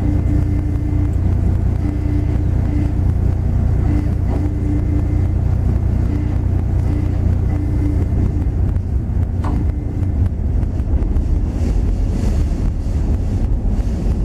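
Car ferry's engine running with a steady deep drone as the ship comes into port, with a mid-pitched hum that repeatedly cuts in and out over it.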